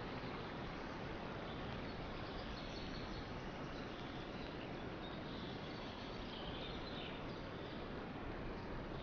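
Steady outdoor nature ambience: an even rushing noise, with faint high chirps of birds now and then, around three seconds in and again near seven seconds.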